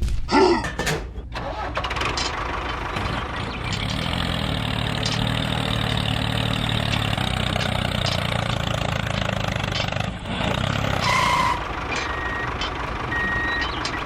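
A vehicle engine starts and runs steadily. Repeated reversing beeps begin about three-quarters of the way through.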